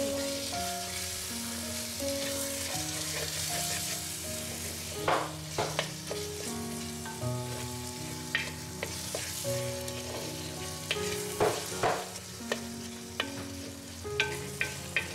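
Onion, tomato and spice masala sizzling in hot oil in a clay pot while being stirred with a wooden spoon, at the browning (bhuna) stage. Several sharper scrapes of the spoon against the pot come through the steady sizzle.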